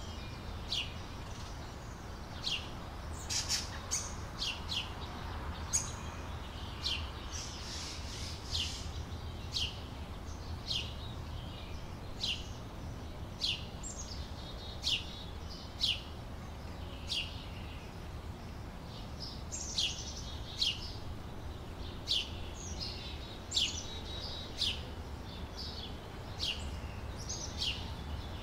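A small bird chirping over and over, short high notes that drop quickly in pitch, about one a second, over a low steady rumble.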